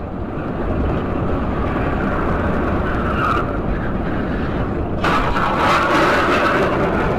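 Steady road and engine noise of a moving car. About five seconds in, a louder hiss sets in for around two seconds.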